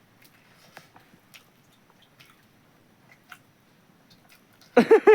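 Quiet chewing with scattered wet mouth clicks from someone eating, then a loud voice breaking in near the end.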